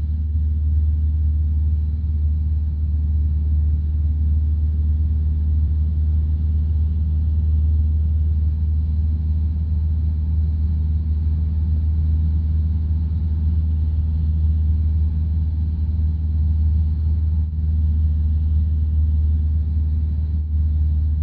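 Single-engine piston light aircraft's engine droning steadily in flight, heard from inside the cockpit as a loud, even low hum.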